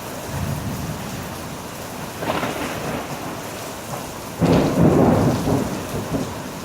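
Heavy rain falling steadily, with thunder over it: a rumble near the start, a sharper crack about two seconds in, and the loudest clap about four and a half seconds in, rumbling on for about a second.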